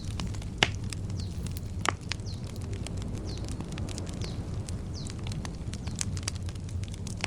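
Wood campfire crackling and popping, with two sharper pops about half a second and two seconds in, over a low steady rumble. A bird calls repeatedly in the background with short falling chirps.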